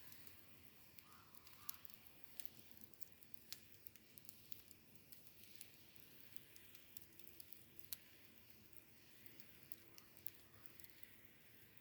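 Faint crackling of a wood campfire: irregular sharp pops and snaps over a low hiss, one of the louder pops coming about eight seconds in.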